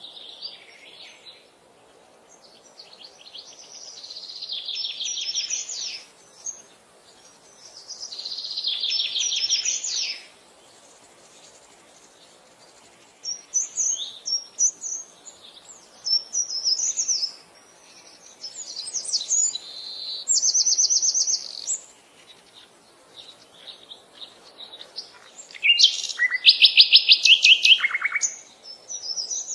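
Songbirds singing: a string of high, quick trilled phrases with short pauses between them, the loudest and longest phrase coming a few seconds before the end.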